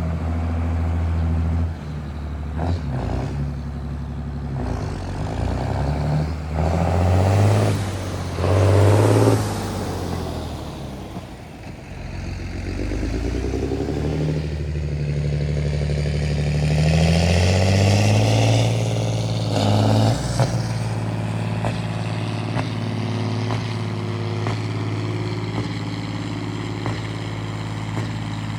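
John Deere 8220 tractor's six-cylinder diesel engine running under operation, its speed dropping about two seconds in, wandering, then climbing and holding steady from about eighteen seconds on. A few short loud bursts of rushing noise come in around the middle.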